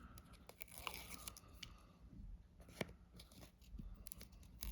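Faint crinkling and small clicks of paper and film as the release liner is peeled off double-sided foam tape, with one sharper tick about three seconds in.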